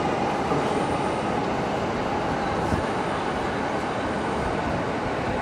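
A train running steadily on the line, a continuous rumble and hiss that neither builds nor fades, with one small click in the middle.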